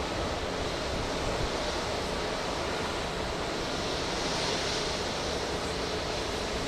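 Steady rushing noise of airliner jet engines, even throughout with no distinct events.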